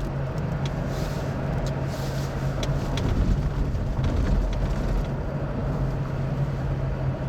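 A car heard from inside its cabin: a steady low engine hum under an even rush of road and wind noise, with a few light ticks in the first few seconds.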